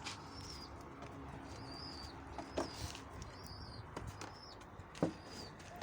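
Domestic pigeons cooing in a loft, with short high bird chirps repeating every half second or so. Two sharp knocks fall about two and a half and five seconds in.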